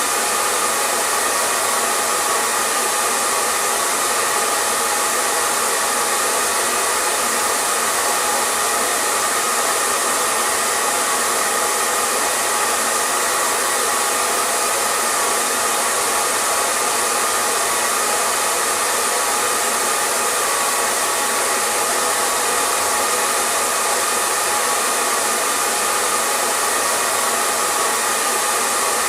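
Hair dryer running continuously with an even, unchanging rushing hiss of air and a faint steady motor hum.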